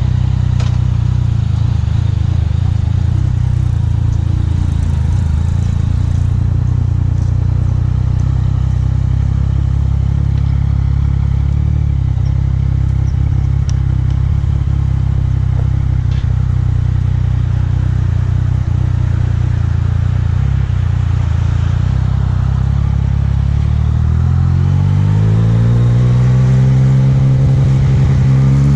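Yamaha MT-09's three-cylinder engine running at a steady pitch, then revving up with a rising pitch over the last few seconds as the bike accelerates.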